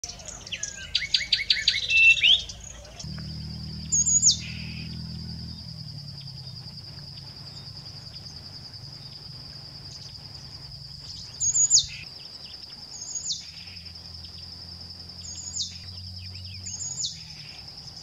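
A bird singing a quick run of rising and falling whistled notes for the first three seconds. Then a Somali tit gives five short, sharp downslurred calls, spaced a second or more apart, over a continuous high, finely pulsing trill.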